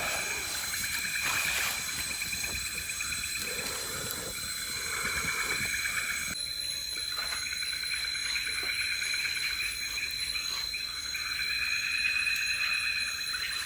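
Night-time tropical forest insect chorus: a steady high-pitched trill with pulsing, buzzing calls that swell and fade, and a few faint scattered crackles.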